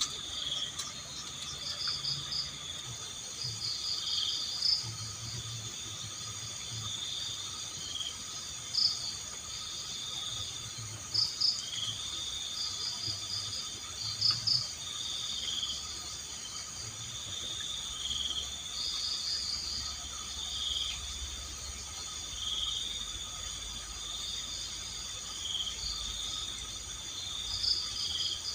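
Night insect chorus of crickets: a steady high-pitched trilling drone, with short, louder chirping bursts breaking in every few seconds.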